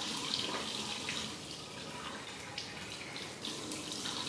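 Water running from a tap into a sink, steady, with a few light knocks.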